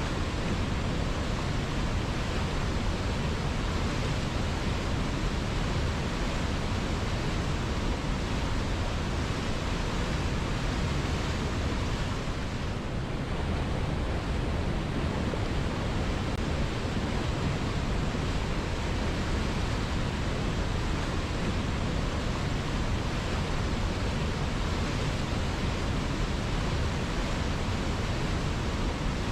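River water flowing in a steady, even rush, briefly a little softer about 13 seconds in.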